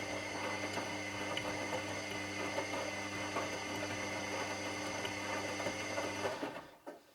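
Washing machine motor running with a steady hum and churning, then cutting out about six and a half seconds in, followed by a single click near the end.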